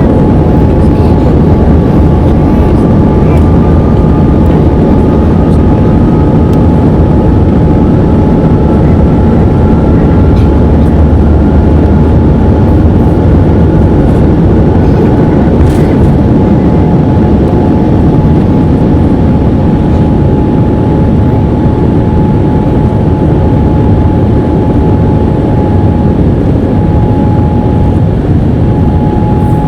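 Boeing 787-9 jet engines at take-off power: a loud, steady rumble with a held whine, and a second whine that slowly rises in pitch over the first half.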